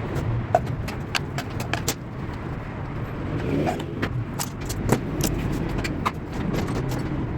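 Irregular sharp clicks and taps of tools and parts being handled, over a steady low rumble.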